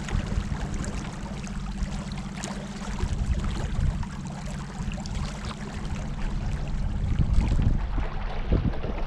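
Small boat underway on a river: a steady low hum under splashing water and wind noise, a little louder about seven seconds in.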